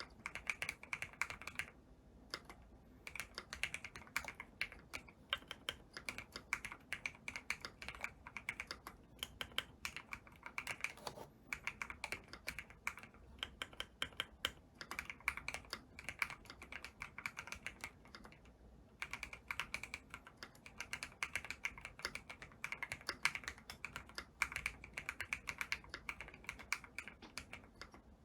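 Custom keyboard being typed on fast and continuously, with rapid key clicks and brief lulls about two seconds in and again near nineteen seconds.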